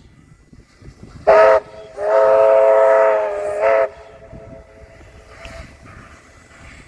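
Steam locomotive whistle: one short blast, then a long one of nearly two seconds that swells briefly again just before it cuts off.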